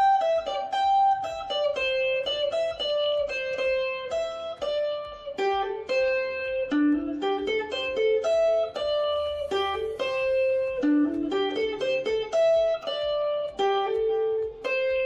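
Music: a plucked string instrument, guitar-like, playing a melody of single picked notes that ring on.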